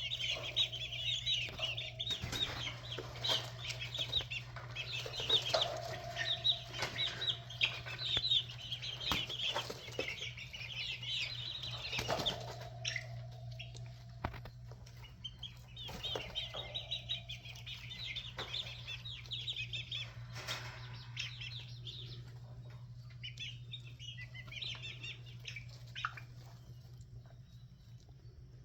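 A group of six-week-old red jungle fowl chicks peeping rapidly and high-pitched, in clusters, mixed with sharp scratches and wing flaps. The peeping thins out in the last few seconds. A steady low hum runs underneath.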